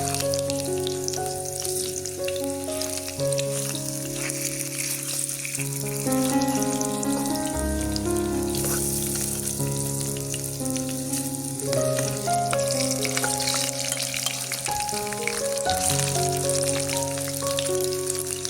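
Food sizzling as it fries in hot oil, a steady crackling hiss, with background music playing a slow melody over it.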